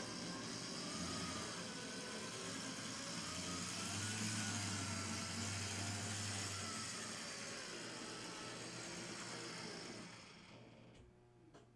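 HO-scale brass 3-truck Shay model locomotive running on track: its open-frame electric motor and gearing whine, the pitch wavering up and down as the speed changes, over a steady rolling hiss. The sound dies away about ten seconds in.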